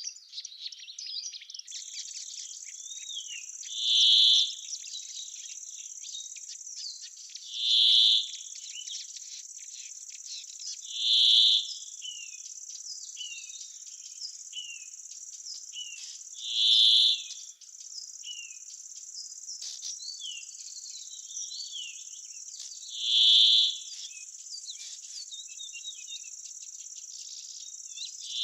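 Insects and birds: a steady high insect trill throughout, a louder short buzzing insect phrase repeated six times at intervals of about four to six seconds, and small bird chirps and twitters in between.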